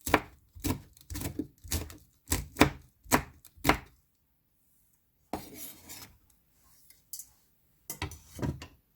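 Kitchen knife chopping a red chili on a cutting board, about ten quick strokes in the first four seconds. After a pause comes a short scraping rustle, then a few more knocks near the end.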